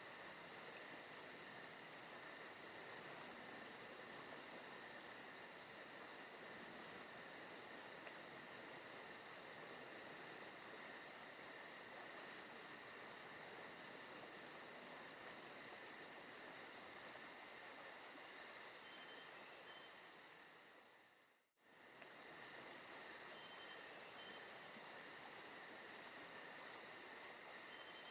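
Quiet forest ambience of insects chirping steadily in a rapid, high-pitched pulsing chorus over a soft hiss. About three quarters of the way through it fades out completely for a moment, then fades straight back in, like the seam of a looped track.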